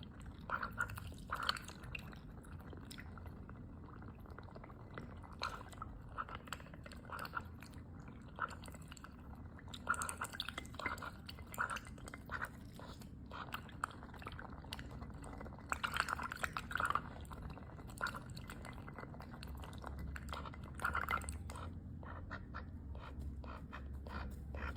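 Pet duck eating, its bill making irregular clicking, slurping bursts as it picks up food, with a little watery dabbling.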